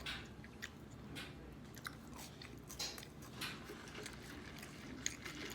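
A person chewing a mouthful of food close to the microphone: scattered small wet clicks and soft crunches.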